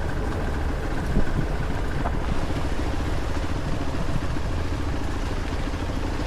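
Motorcycle engine running steadily with a low rumble, with a single short knock about a second in.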